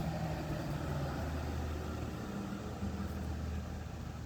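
Steady hiss of light rain falling, with a low steady hum underneath.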